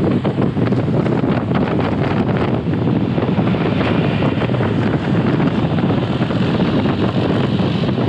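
Wind rushing over a helmet-mounted action camera's microphone on a moving motorcycle: a loud, steady low rumble.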